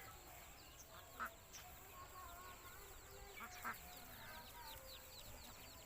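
Ducklings peeping: a rapid run of short, high, falling peeps, several a second, with a couple of brief louder calls about a second in and about three and a half seconds in.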